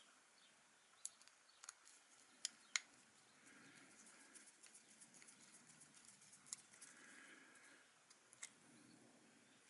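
Faint scattered clicks and light taps over quiet room tone, the sharpest a little under three seconds in.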